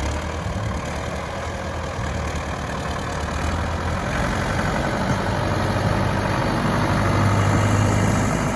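Farm tractor engine running steadily, growing a little louder near the end.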